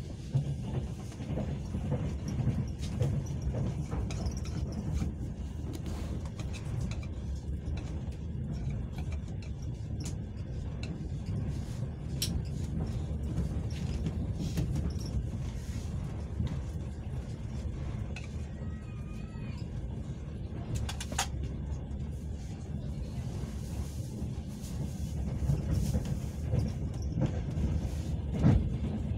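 Passenger train carriage heard from inside, running along the track: a steady low rumble with a few sharp clicks, the loudest about twelve seconds in and again about twenty-one seconds in.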